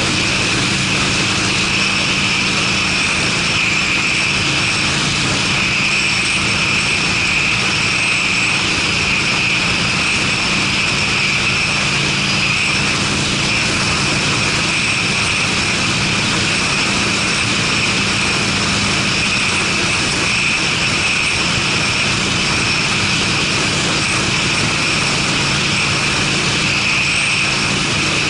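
Harley-Davidson Sportster V-twin with Screamin' Eagle mufflers running at a steady cruising speed, an even exhaust drone under a constant rush of noise, with no change in engine speed.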